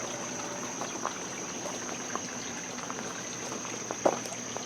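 Steady high-pitched drone of crickets over a faint even hiss, with a few faint clicks about a second in, about two seconds in and near the end. There is no bird chorus: the morning is nearly empty of birdsong.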